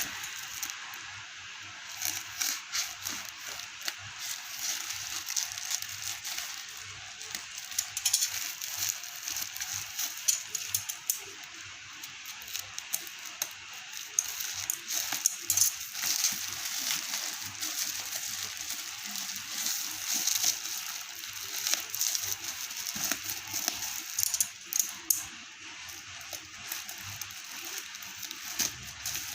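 Packaging being handled and opened: irregular rustling and crinkling with many small sharp clicks and rattles.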